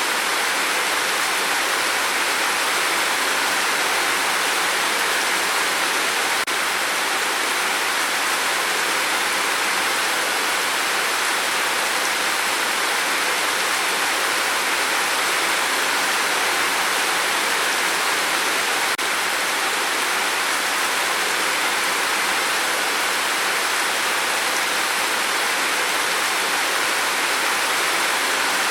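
Heavy rain on a tin roof, a dense, steady hiss with no single drops standing out.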